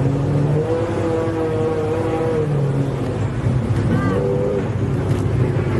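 A vehicle running, with a steady engine hum over road noise. Several held tones shift in pitch now and then.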